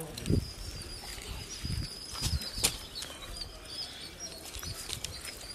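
Small birds chirping repeatedly in the background, with a few low thumps and one sharp click about two and a half seconds in.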